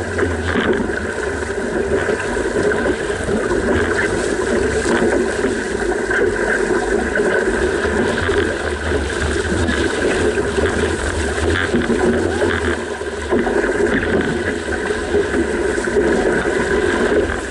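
Steady rushing noise of a boat under way on open water, with a fluttering low rumble throughout.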